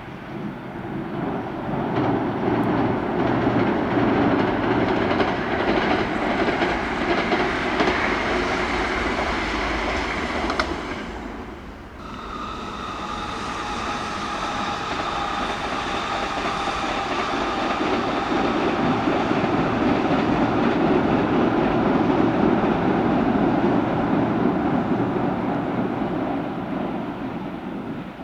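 Kintetsu electric trains passing at speed, wheels clattering over the rail joints with a heavy rumble. About eleven seconds in the sound cuts away and another pass builds, this one carrying steady high whining tones over the rumble.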